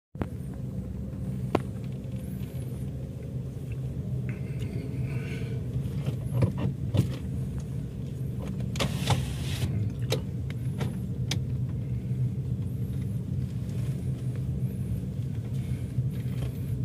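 Car engine running, heard from inside the cabin as a steady low rumble, with scattered sharp clicks and knocks.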